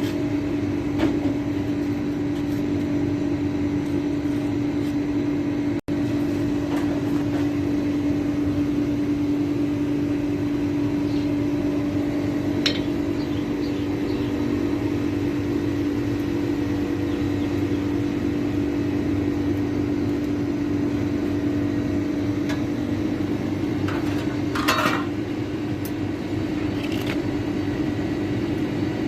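A steady machine hum with one strong low tone. It cuts out briefly about six seconds in, and a few short clicks and knocks sound over it, the loudest a cluster near the end.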